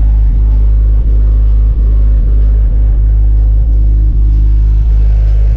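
A car engine running close by, with a loud, steady low rumble.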